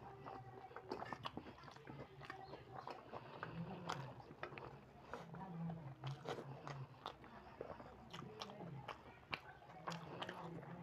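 Chewing and lip smacking while eating rice and potato-chickpea curry by hand, heard as a run of short, wet mouth clicks.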